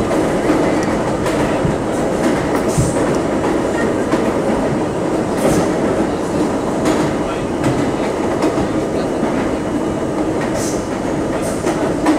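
Train running through a tunnel: a steady rumble of wheels on rail with a few brief sharp ticks.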